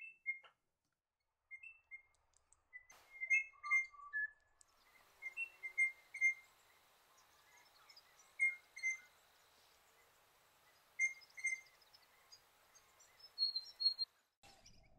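Crimson rosella calling: short, clear whistled notes, often in pairs, repeated at irregular intervals.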